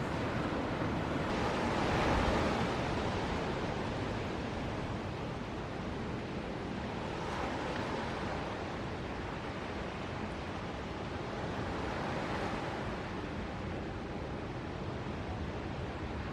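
Ocean surf breaking on the reef: a continuous noisy roar that swells as waves break, loudest about two seconds in and again more gently around seven and twelve seconds.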